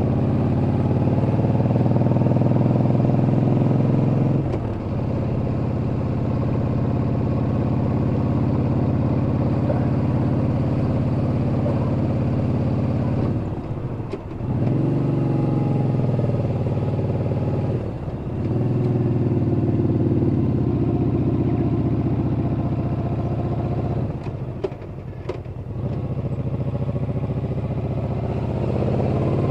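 Yamaha Bolt's air-cooled V-twin running under way, its engine note steady but dropping away briefly four times before picking up again, as at throttle lifts or gear changes.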